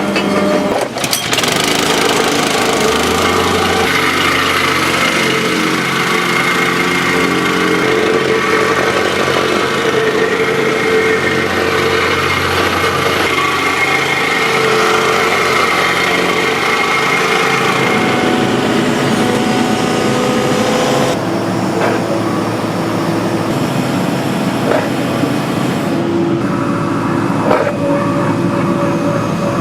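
Heavy construction machinery, most likely a hydraulic excavator's diesel engine and hydraulics, running steadily under load. The engine note shifts several times, with a low hum present through the first half.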